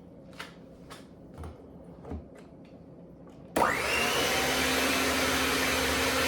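An electric kitchen mixer starts up with a short rising whine and runs steadily at speed, beating eggs into the batter. It follows a few faint taps.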